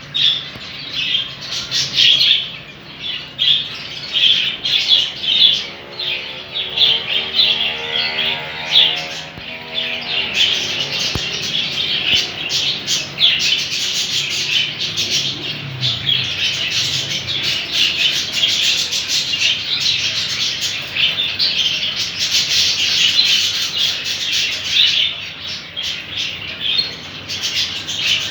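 Many small caged ornamental birds chirping and squawking together in a dense, unbroken chorus.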